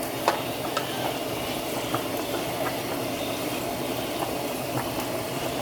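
Shrimp frying in a pan of hot oil: a steady sizzle with scattered pops and crackles.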